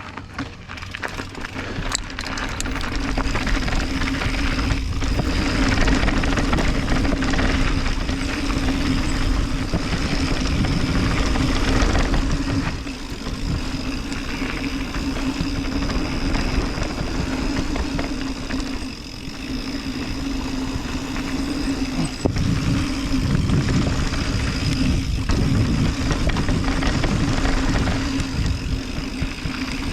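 Mountain bike descending a dirt trail: wind rushing over the camera microphone and tyres rolling over dirt, with a steady hum underneath and brief dips in level a few times.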